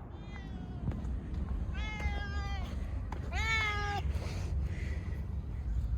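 Domestic cat meowing three times, the first faint and short, the last the loudest, each call rising in pitch and then holding. A steady low rumble runs underneath.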